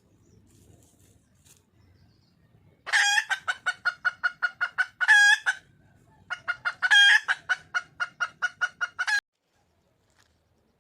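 Red junglefowl hen calling for a mate: two runs of rapid clucking notes, about seven a second, each with one longer, louder note in it.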